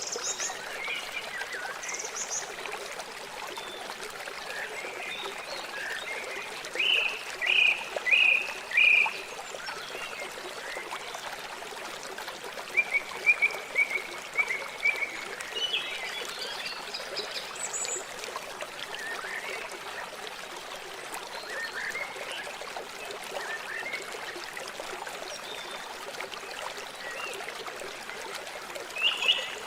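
River water flowing steadily, with bursts of short chirping calls about a quarter of the way in and again near the middle.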